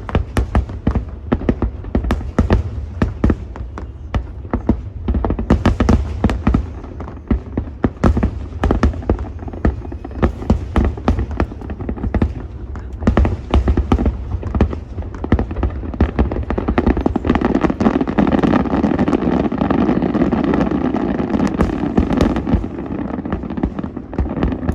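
Dense barrage of fireworks: rapid bangs and crackles, many a second, that thicken into a continuous din in the last several seconds and then fall away near the end.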